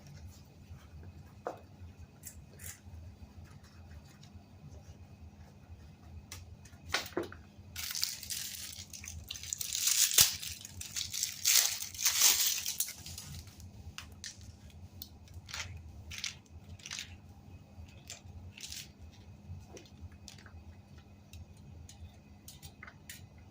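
Handling noise: scattered clicks and taps, with about five seconds of loud rustling, crinkling noise in the middle, over a steady low hum.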